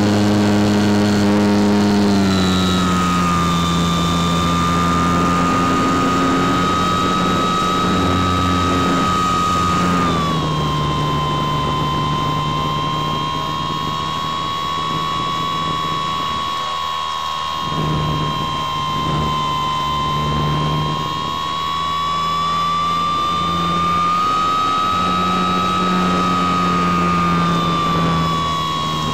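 Motor and propeller of a radio-controlled motor glider, heard from a camera on board in flight: a steady high whine with wind rush over the airframe. The pitch steps down about two seconds in and again about ten seconds in, rises a little later on, and eases off near the end as the throttle changes.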